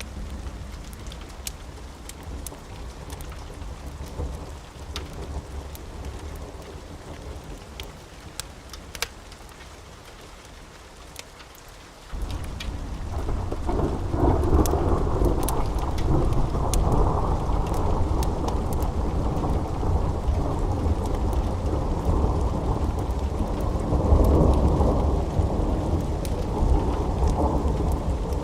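Steady rain with scattered small sharp crackles. About twelve seconds in, a long roll of thunder starts suddenly and rumbles on, swelling again near the end.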